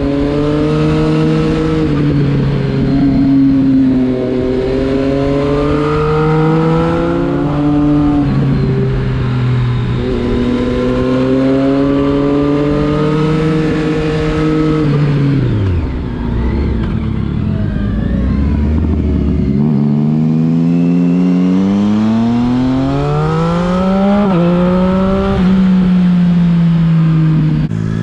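Triumph Street Triple 675 RX's inline-three engine pulling hard through the gears: the pitch climbs, drops back at each upshift and climbs again. About halfway through it falls to a low, steady note for a few seconds before accelerating through several more gears.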